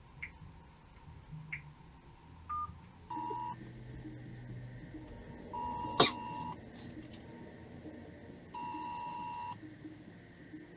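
Phone call ringing out on speakerphone: a ringback tone of about a second, repeating every three seconds or so, after a few short faint beeps. A single sharp click sounds about halfway through.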